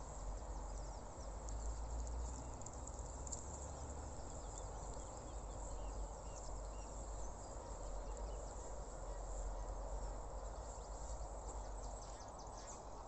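Quiet outdoor ambience: faint, scattered calls from distant waterbirds over a steady low rumble.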